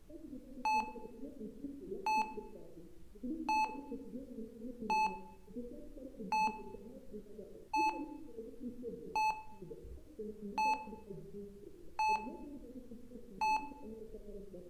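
Hospital patient monitor beeping steadily, one short identical tone about every second and a half.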